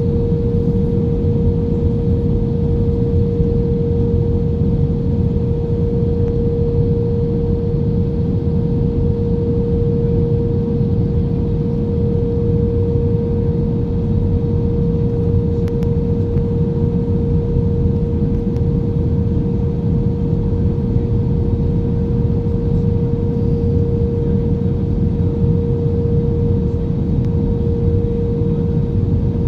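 Steady low rumble of a vehicle in motion with a constant mid-pitched hum over it, unchanging throughout.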